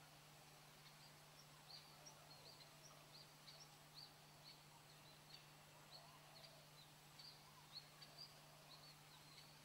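Faint birdsong: many short, high chirps, about two a second, with a few lower calls in between, over a steady low hum.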